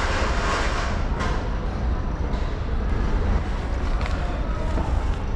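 Steady low rumble with an even hiss of road noise, as of a moving vehicle or passing traffic.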